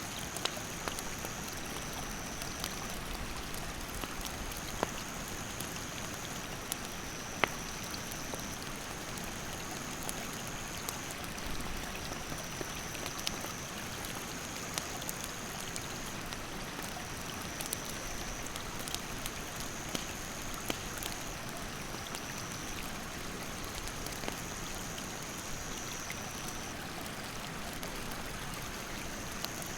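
A rushing mountain stream with a wood campfire crackling in scattered sharp pops. An insect calls in a high, steady buzz that runs in stretches of about two seconds, changing pitch a little from one stretch to the next.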